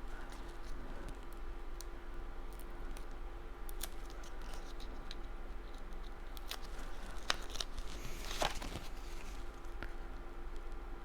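Paper-crafting handling noises: scattered small taps and clicks of cardstock pieces being moved and pressed, with a brief rustle about eight seconds in, over a steady low electrical hum.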